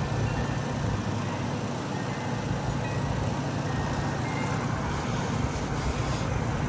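Steady wind noise on the microphone, heaviest in the low rumble, with a few faint wind chime notes ringing now and then.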